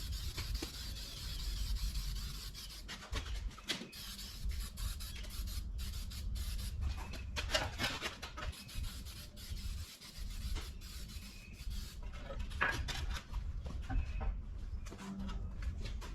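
Irregular rubbing, rasping strokes of a brush working over sheet-metal inner fenders, applying rust reformer, over a low steady hum.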